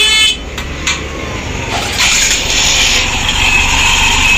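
TVS motorcycle's single-cylinder engine running after its timing chain was replaced and the magneto cover refitted, with no rattle, which the mechanic takes as the problem solved. A brief high-pitched sound right at the start and a click about a second in.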